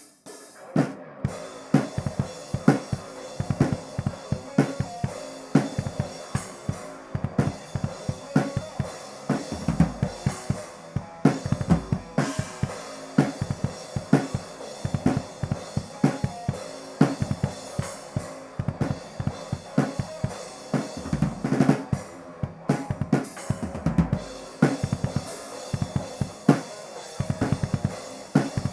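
Acoustic drum kit played in a steady groove, raw and unprocessed: bass drum and snare hits with cymbal wash over a continuous run of strikes.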